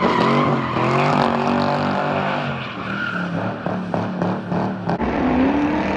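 Straight-piped Pontiac G8 GT's V8 engine running hard: its pitch falls in the first second or so, holds steady, breaks into a run of sharp exhaust crackles, and rises again near the end.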